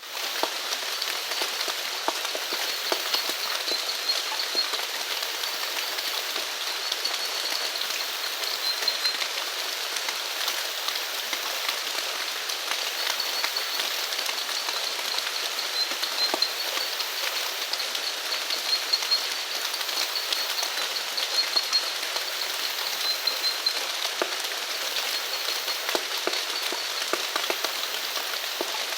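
Steady rainfall, with many individual drops striking close by. A high, pulsing trill from small animals comes and goes over it.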